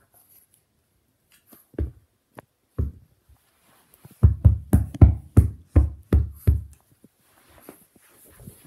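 A run of dull, heavy thumps: two single ones, then about eight in quick succession, roughly three a second.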